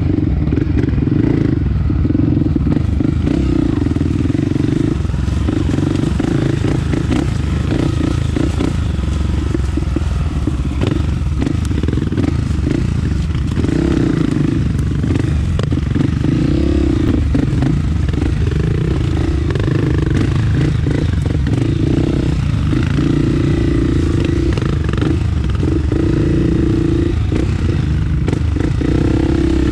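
Honda CRF250F single-cylinder four-stroke trail-bike engine running as the bike is ridden, the throttle opening and easing every few seconds, heard close up from a helmet-mounted camera, with scattered knocks and rattles.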